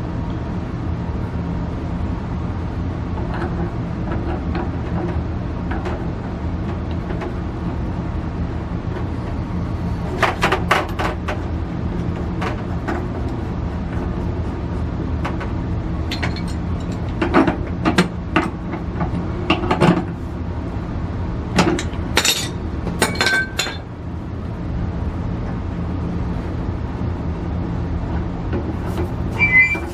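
Scattered metallic clinks and knocks of hand tools and fittings being handled, in clusters around the middle and again near the end, over a steady low hum.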